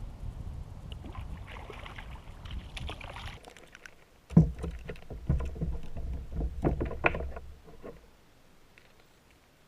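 Knocks and water sounds from a kayak being handled on the water, with a sharp loud thump about four seconds in and several smaller knocks after it, dying away near the end.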